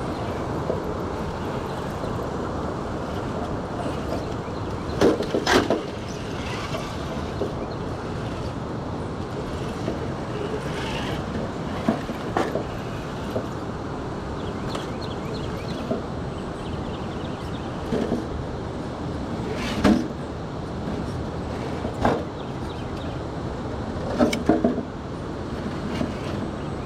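Steady rushing of river water, with occasional knocks and clatters from the Traxxas TRX-6 RC crawler's tires and chassis on wet rocks, the loudest about five seconds in and again around twenty seconds in.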